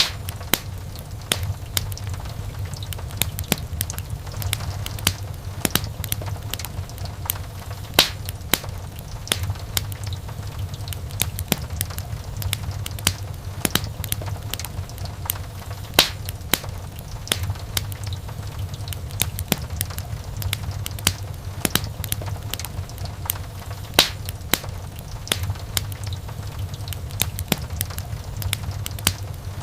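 Wood fire crackling in a fireplace: frequent sharp pops and snaps over a steady low rumble of the flames, with a louder pop about every eight seconds.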